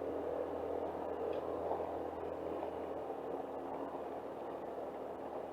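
Home-built scooter riding along a gravel road: its engine running steadily under a continuous rumble of tyres on gravel.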